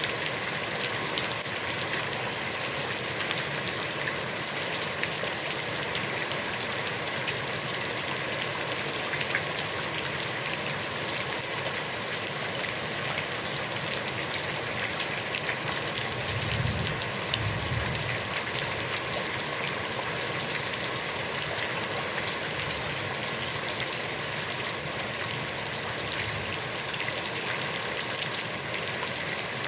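Heavy rain falling steadily onto a pond, a dense patter of drops hitting the water. A brief low rumble comes a little past halfway through.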